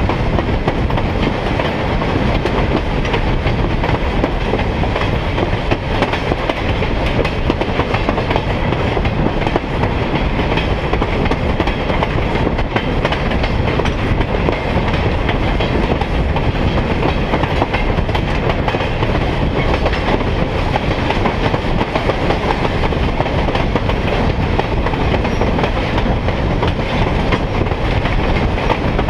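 Railroad car rolling steadily along the track, heard from aboard the train: steel wheels rumbling on the rails and clicking over rail joints.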